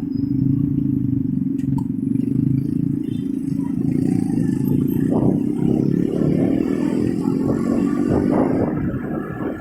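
Motorcycle engine running steadily at low speed in traffic, with road noise. A sharp click comes a little under two seconds in, and light clattering comes through in the second half.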